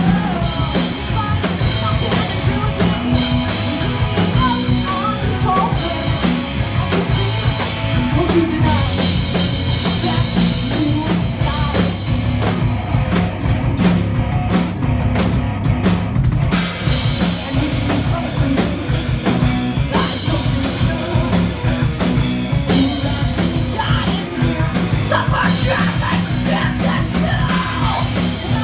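Live metal band playing loud, with drum kit and distorted guitars. Around the middle the cymbals drop out for a few seconds of short, choppy hits before the full sound returns.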